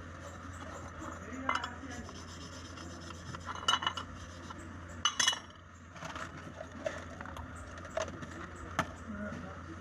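Scraping, rubbing and clinking of metal on a cooker lid under repair, in scattered short strokes, the loudest near the middle.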